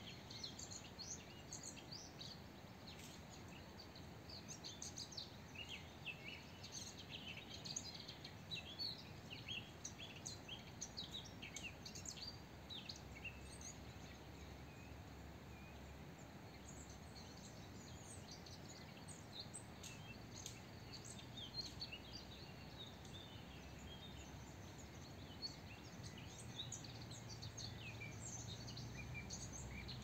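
Small birds chirping and twittering, a busy stream of short high calls that thins out in the middle and picks up again near the end, over a faint steady outdoor hiss.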